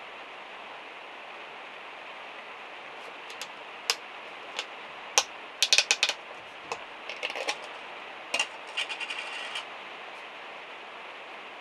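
Steady rain hiss on the van's metal roof. From about three seconds in until nearly ten seconds there is a run of sharp clicks and light knocks, loudest around the middle, with a quick rattle of small ticks near the end.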